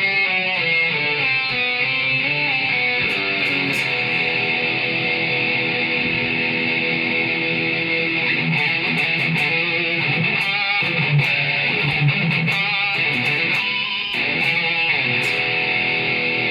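Electric guitar played through a Zoom G5N multi-effects pedal into a Marshall MG30 FX amp, held notes and riffs with some quick runs of notes, on a heavy distorted patch.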